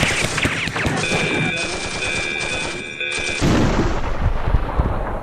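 A rapid clatter of bangs and crashes, with a steady high tone from about one second in, then a deep rumbling surge after about three seconds.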